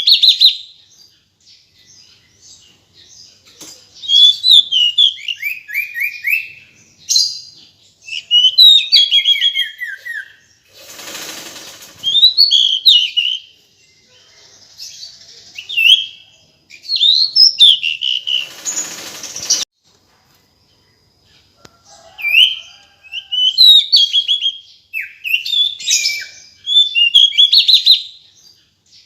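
Female pied bushchat (decu) calling in repeated bursts of high chirps, some as quick falling runs of notes, as used to lure a male. Twice, a rustling burst of noise lasting about a second and a half breaks in.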